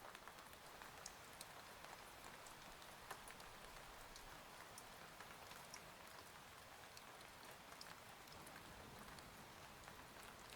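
Faint, steady rain ambience: an even patter with scattered sharp drop ticks.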